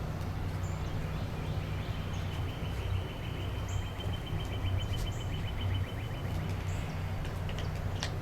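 Bird ambience: scattered short, high bird chirps and one long, even trill of rapid notes from about two to six and a half seconds in, over a steady low hum.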